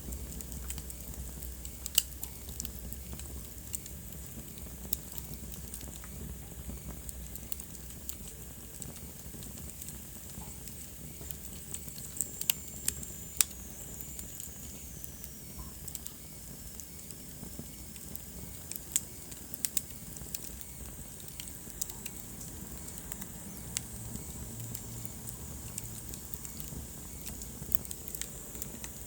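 Wood fire burning in a fireplace, crackling with irregular sharp pops and snaps over a soft steady hiss. A faint high whistle slides down in pitch partway through.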